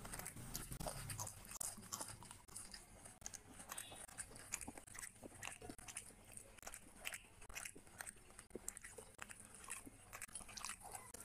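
Close-miked eating: chewing and crunching with irregular wet clicks, while a grilled whole chicken is pulled apart by hand.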